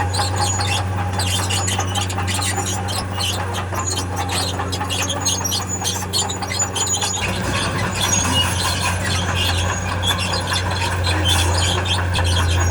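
Crawler machine's tracks squealing and squeaking as they move, over its diesel engine running steadily; the engine grows a little louder about seven seconds in.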